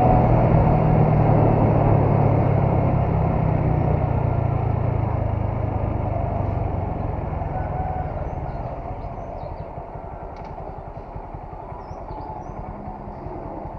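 Honda MSX 125's single-cylinder engine running steadily, its sound fading away over the first nine seconds or so. A few faint, short high chirps come near the end.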